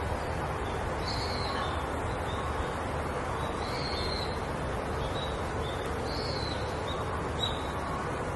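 Steady background hiss of a nature ambience with faint, short, high bird calls repeating roughly once every second or so.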